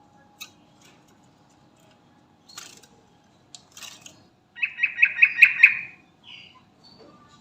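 Sooty-headed bulbul (trucukan) calling: a few short, sharp chirps, then a loud run of quick repeated notes, about five a second, lasting around a second and a half just past the middle.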